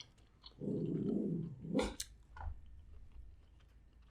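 A dog growls once, a low rasping growl about a second long, ending in a short sharp sound.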